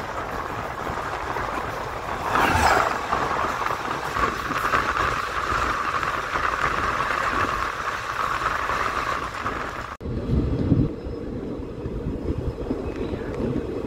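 An oncoming passenger train behind a WDG4 diesel locomotive passes on the adjacent track, heard from a moving train. There is a loud rush falling in pitch as the locomotive goes by about two seconds in, then steady rushing and rattling of its coaches. About ten seconds in the sound changes abruptly to a lower rumble of the train's own running, with a few low thumps.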